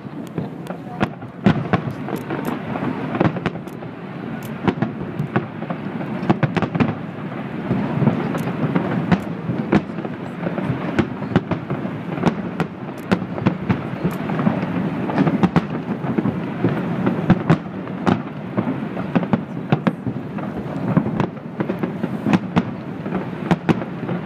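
Distant fireworks display: a continuous low rumble of shell bursts, with frequent sharp bangs and crackles scattered irregularly throughout.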